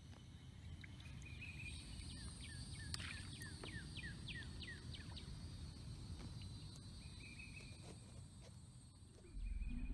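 A songbird singing a quick run of about eight down-slurred whistled notes a few seconds in, with short buzzy trills before and after, over a low steady rumble that grows suddenly louder near the end.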